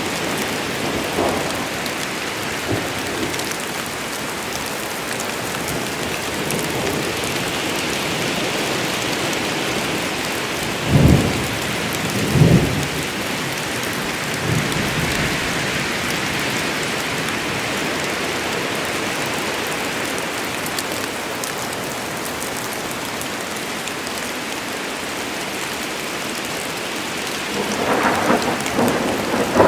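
Steady heavy rain falling in a forest, with two short rolls of thunder about a third of the way in and another rumble building near the end.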